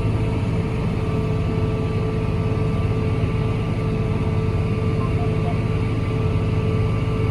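John Deere 8R tractor engine running steadily while the tractor drives, a constant low drone with a steady hum.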